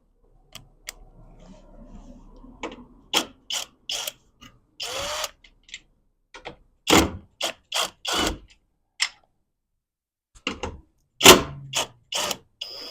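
Cordless power screw gun backing out the Torx screws that hold a car window motor, run in a series of short bursts with mechanical clicking, one longer burst near the middle.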